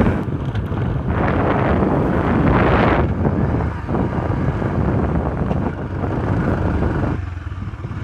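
A vehicle driving along a road, its running sound mixed with wind buffeting the microphone as it moves, in uneven gusts.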